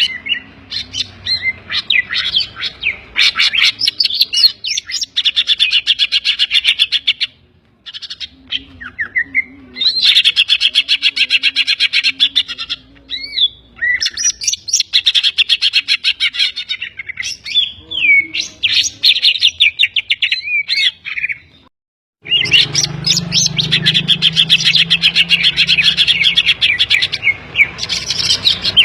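Green leafbird (cucak ijo) singing loud, fast chattering runs of high notes and trills. Its song is filled with mimicked calls of other birds, the kapas tembak and the tengkek kingfisher. The song breaks off briefly twice.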